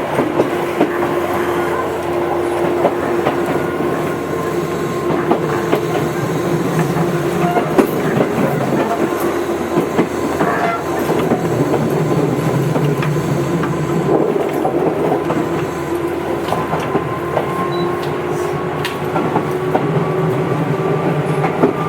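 Tobu 8000 series electric train running between stations: a steady whine that rises slightly in pitch near the end, over running rumble and the click of wheels on rail joints.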